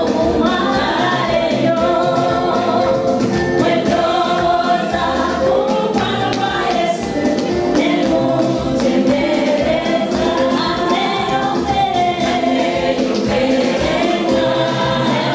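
Gospel choir singing over a backing track with a steady beat.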